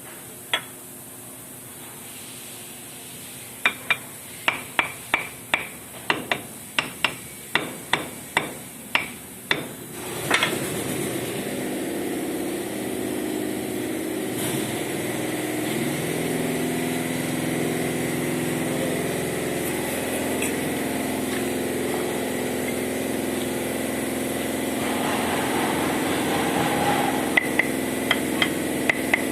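Hammer blows with a metallic ring, about two a second for several seconds, during repair work on a furnace. A steady machine like a motor then starts and keeps running, with a short run of light hammer taps over it near the end.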